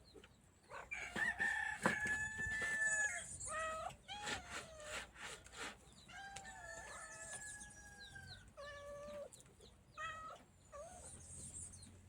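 A rooster crowing twice, each crow ending in a long held note, with shorter clucking calls from chickens in between. A few sharp knocks come during and after the first crow.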